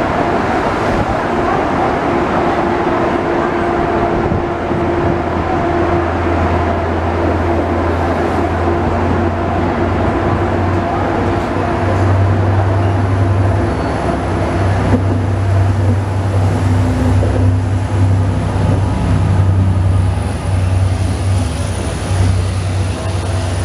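Diesel-hauled double-deck passenger train pulling out of a station: coaches rolling past with a steady rumble and a deep engine drone that grows louder from about 12 seconds in as the locomotive at the rear of the train draws near, with a thin high whine above.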